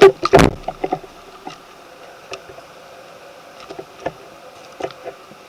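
Toy monster trucks being handled and set down: a clatter of knocks in the first half second, then scattered light clicks.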